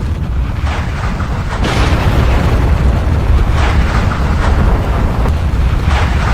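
Volcanic eruption: a loud, continuous deep rumble with irregular sudden bursts breaking through every second or two.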